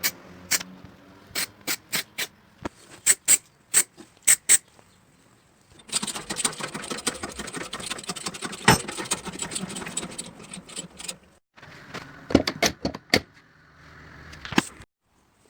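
Sharp metallic knocks and clatter from bodywork tools on car body metal, coming in irregular runs. A steady noisy background starts and stops abruptly several times.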